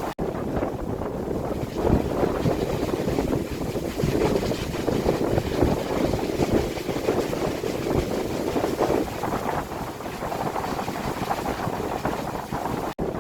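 Strong gusty wind buffeting a phone's microphone: a rushing rumble that swells and eases in gusts. The sound drops out for an instant just after the start and again near the end.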